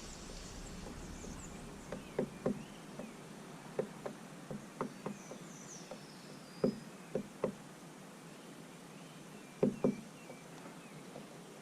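Small birds pecking at seed on a feeder: a dozen or so sharp knocks at irregular intervals, several in quick pairs, with a few faint chirps over the outdoor hiss.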